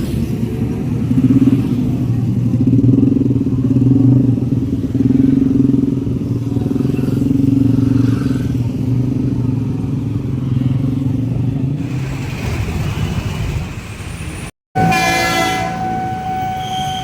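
Road vehicle engines running steadily at a railway level crossing. After a cut near the end, a sustained horn-like tone begins.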